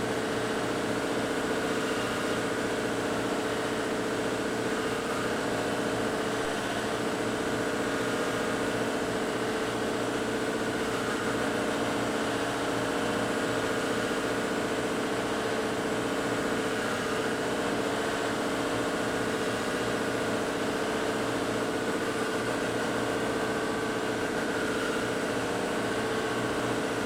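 Electric buffing wheel running steadily with a hum holding several steady tones, as a stave drum shell is held against it and buffed with coarse buffing compound.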